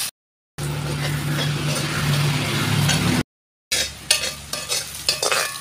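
Sliced onions and tomatoes sizzling in hot oil in a metal kadai as a spatula stirs them. The spatula scrapes and clicks sharply against the pan in the last couple of seconds. The sound drops out completely twice for about half a second.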